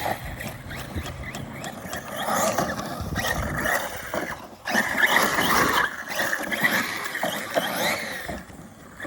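Arrma Notorious 6S electric RC car's brushless motor and drivetrain whining as it is driven, the pitch rising and falling with the throttle. The sound dips briefly about four and a half seconds in.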